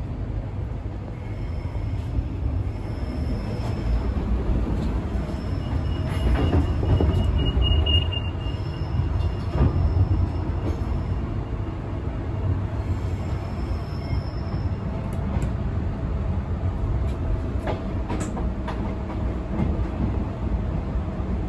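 Queensland Rail SMU 200 series electric train heard from inside the carriage while running: a steady low rumble of wheels on rail, with thin high squeals coming and going and a few sharp clicks from the track in the second half.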